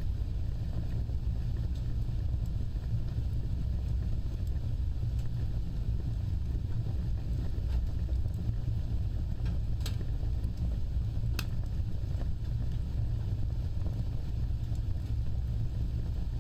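Wood fire burning with a steady low rumble, with two sharp crackling pops, the first about ten seconds in and the second a second and a half later, and a few fainter ticks.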